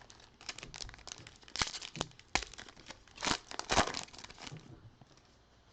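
A trading card pack's wrapper being torn open and crinkled by hand: a run of crackles and sharp crinkles that stops a little over four seconds in.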